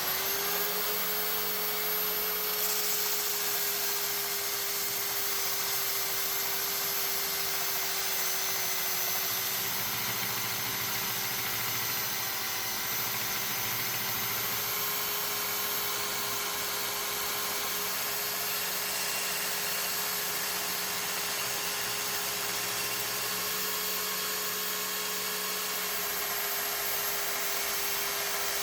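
Electric grinder running at a steady speed with a constant whine, over a hiss of grinding.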